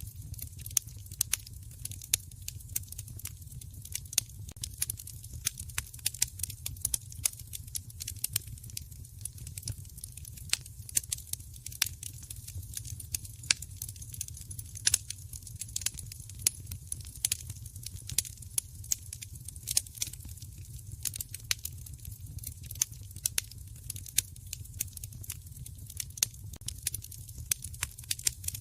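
Wood fire burning in a fireplace: irregular, dense crackling and popping over a steady low rumble of the flames.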